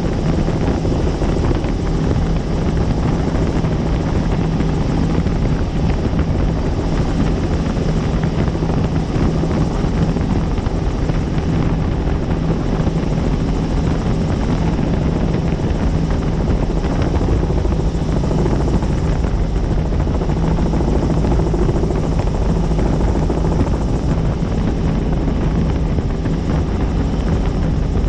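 Helicopter in flight: loud, steady rotor and engine noise with a constant low hum.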